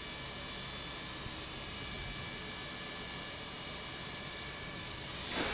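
Steady low hum with several faint, steady high tones running through it, rising slightly in level near the end.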